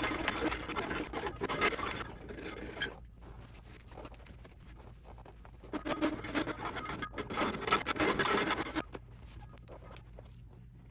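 Hand-tool scraping or rasping, in two spells of about three seconds each, the second beginning about six seconds in.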